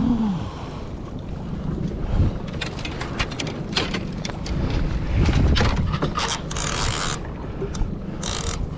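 Irregular clicks and creaks of a fishing rod and reel being worked against a heavy striped bass, over wind rumble on the microphone.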